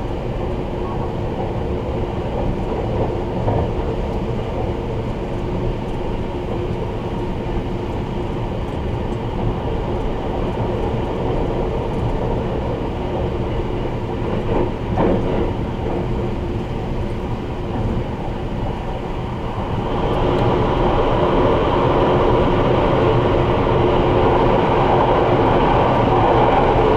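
Sunrise Express 285-series sleeper train running at speed, heard from inside the carriage: a steady rumble of wheels on rail. About two-thirds of the way through, the running noise gets louder and brighter and stays that way.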